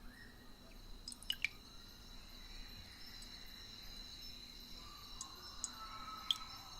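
Night nature ambience: a steady high insect trill with a few sharp water drips falling through it, the loudest a pair about a second and a half in and another near the end.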